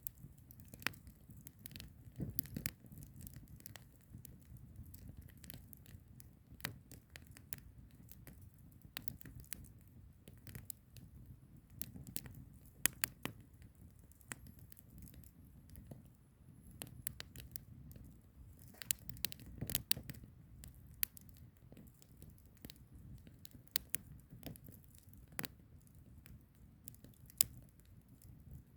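Firewood burning, crackling with irregular sharp pops and snaps over the low, steady rumble of the flames.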